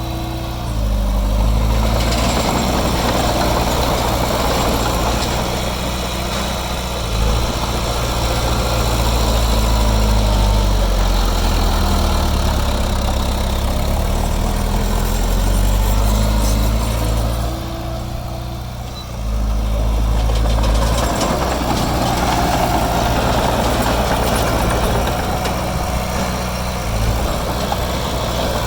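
Small crawler bulldozer's diesel engine running under working load, its pitch rising and falling as the load changes. It eases off briefly a little past the middle, then picks up again.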